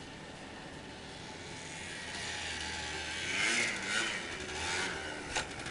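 Four-wheeler (ATV) engine running, swelling louder and shifting in pitch a few seconds in, with one sharp click near the end.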